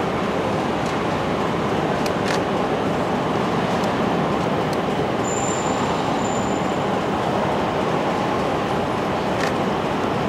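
Steady rushing noise of a distant JR E231 series 800 subseries electric train approaching along the track, heard with the trackside surroundings. There are a few faint ticks, and a brief high-pitched tone about five seconds in.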